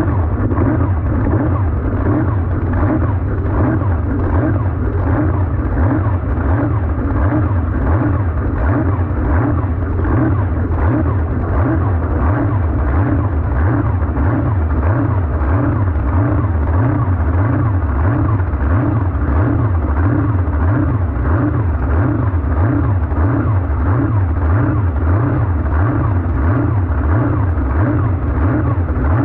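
Supercharged V8 jet sprint boat engine running loud and steady, with a fast even pulsing throughout.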